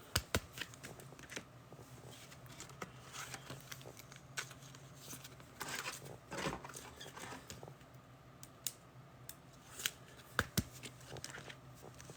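Trading cards being handled and sorted by hand: scattered light clicks and taps of card edges, with a short swish of cards sliding against each other about six seconds in.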